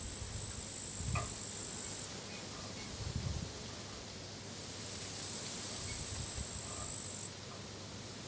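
Crickets chirring in a steady high-pitched trill that stops about two seconds in, returns midway and cuts off near the end. Now and then a gust of wind rumbles on the microphone.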